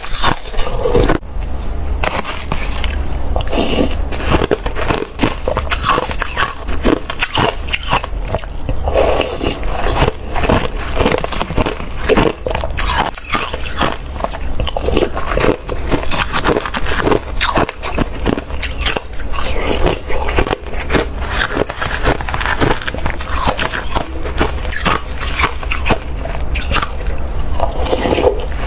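Watery, slushy ice being bitten and chewed close to the microphone: a dense, irregular run of wet crunches and crackles with no let-up.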